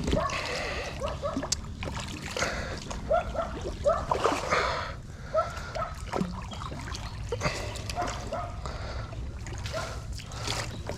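Water splashing in several short bursts a couple of seconds apart.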